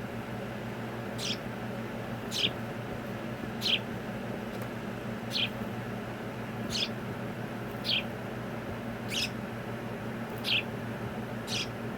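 A pet bird calling: a series of nine short, high chirps, each dropping sharply in pitch, repeated about once every second or so.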